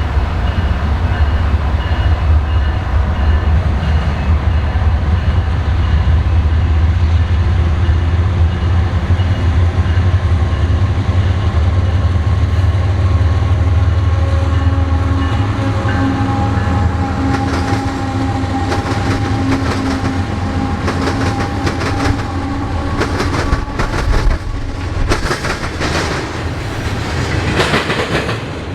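A train passes close by. A heavy, steady low rumble fills roughly the first half, then the railcars' wheels clack over the rail joints in quick repeated knocks for the rest.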